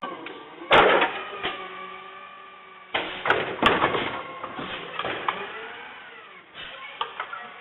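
Garbage truck at work: a mechanical whine that rises and falls, broken by two sudden loud bangs, about one second and three seconds in, and a few lighter knocks after.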